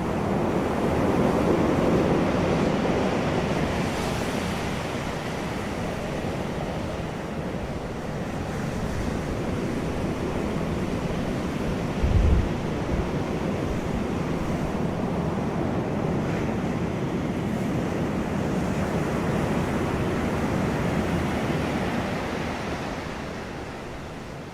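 Wind blowing over the microphone, a steady rushing that swells and eases, with a brief low buffet about halfway through.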